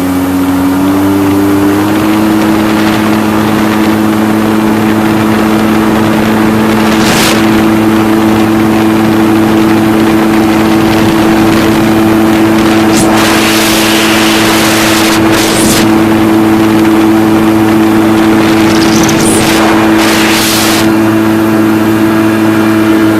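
Jet ski engine speeding up, its pitch climbing for the first two seconds, then running at a steady high pitch. A few brief hissing bursts come through.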